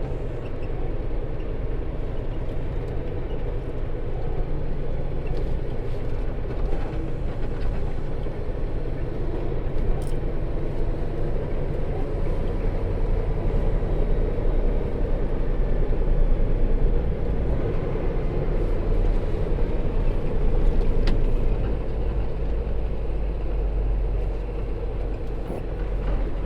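Semi-truck diesel engine and road noise heard inside the cab while driving: a steady low drone that swells a little now and then.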